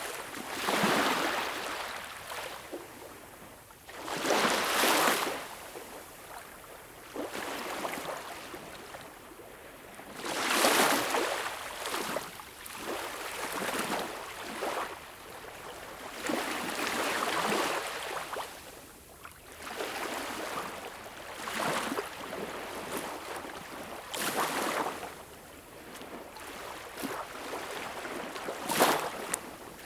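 Ocean waves breaking and washing ashore, a rushing hiss that swells and fades every few seconds, with some surges louder than others.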